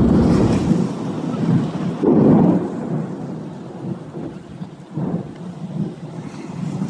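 Heavy rain pouring down in a storm, a continuous rushing noise with irregular deeper rumbling swells, the loudest about two seconds in.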